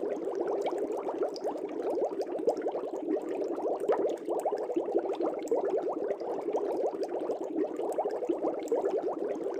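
Air bubbles rising through the water of a fish tank: a steady, dense bubbling made of many small, quick blips, with no let-up.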